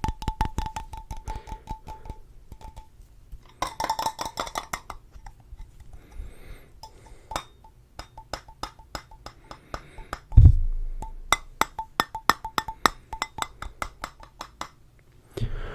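Fingers tapping rapidly on hard objects, sharp clicks in quick runs, the first couple of seconds with a faint ringing tone under them. One heavier thump comes about ten seconds in.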